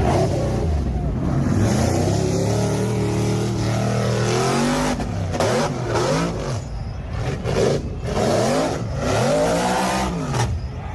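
A motor vehicle engine running and revving: its pitch holds steady, drops, then swells up and down several times. Several short, sharp noises come in the second half.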